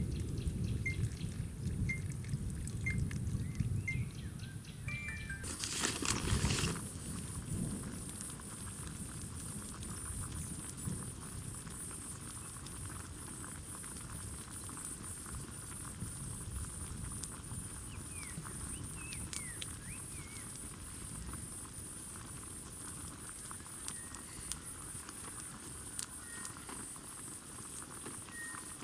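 Rain pattering steadily, with a low rumble of thunder over the first few seconds and a short loud burst of noise about six seconds in. From then on a steady, high, pulsing trill runs over the rain, with a few faint chirps.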